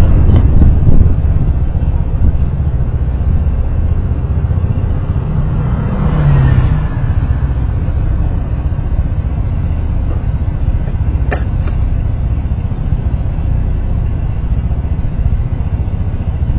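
A motor vehicle on the move in road traffic: a steady, loud, low rumble of engine, tyres and wind, with a brief pitched rise about six seconds in and a single sharp click a few seconds later.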